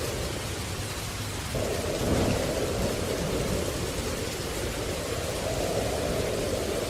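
Steady rain hissing, with a low rumble swelling briefly about two seconds in.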